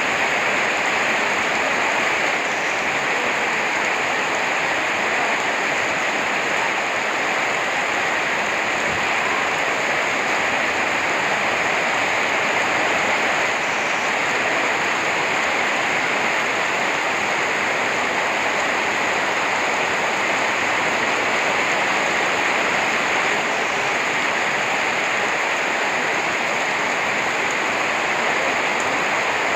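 Steady heavy rain falling, a dense, even hiss that does not let up.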